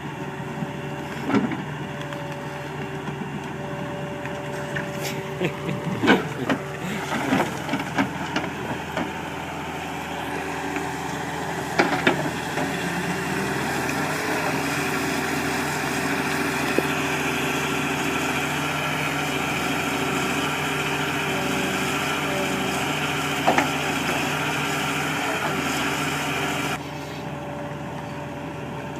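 Heavy machine's engine running steadily, with a few sharp knocks and clanks in the first half. About halfway through it gets louder and harsher, as if working under load, then drops back abruptly near the end.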